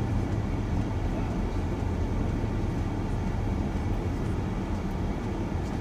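Steady low rumble of a shuttle van's engine and tyres on the road, heard from inside the cabin while driving.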